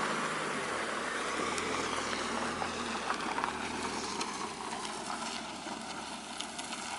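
Van driving up a rough, bumpy road: steady engine and road noise with a few short rattles and knocks, easing off slightly toward the end.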